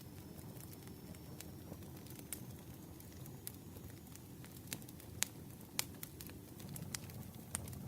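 Campfire burning: a low steady rush of flames with irregular sharp crackles and pops from the burning wood, a couple of louder snaps about five to six seconds in.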